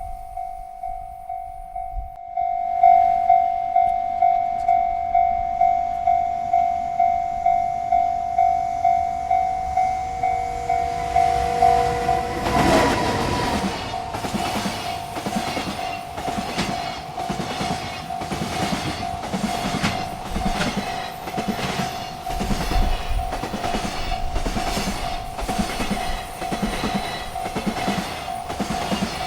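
Railroad crossing bell ringing in a steady, rapid rhythm, louder from about two seconds in. About halfway through, a freight train reaches the crossing, and its wheels clatter over the rail joints in a regular rhythm while the bell keeps ringing.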